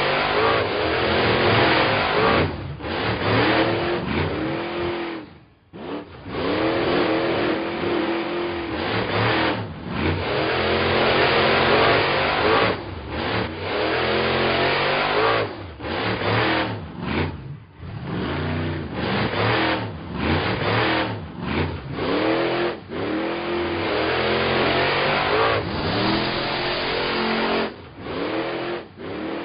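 Cartoon car engine sound effects, revving up and down over and over, with several short breaks.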